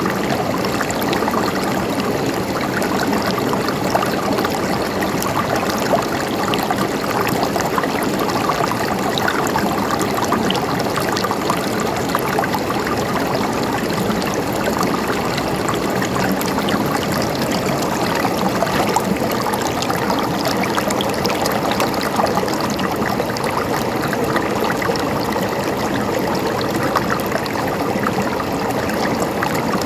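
Mountain stream running and gurgling over rocks, a steady splashing wash with many small trickles.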